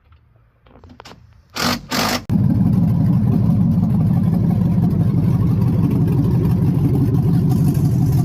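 2005 Chevy Silverado 1500's 5.3-litre V8 starting about two seconds in, after two short bursts of noise, then running loud and steady.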